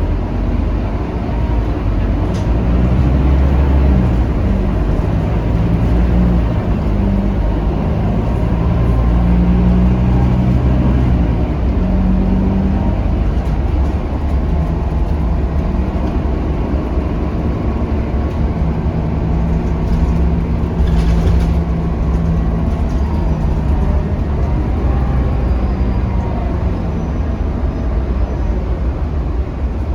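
Onboard sound of a Scania K310UB city bus in motion: its five-cylinder diesel engine humming low, its note shifting up and down as the bus changes speed, over steady road rumble.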